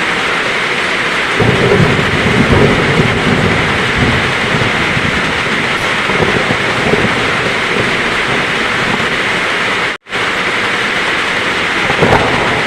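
Heavy rain falling steadily, with a rumble of thunder rolling in a little over a second in and lasting a few seconds. The sound drops out for an instant about ten seconds in.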